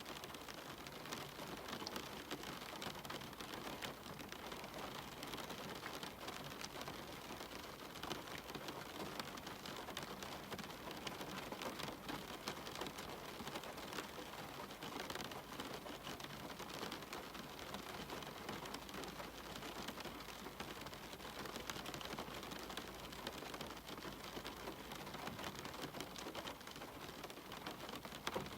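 Steady rain with dense, close drop patter, ticking on a cabin window.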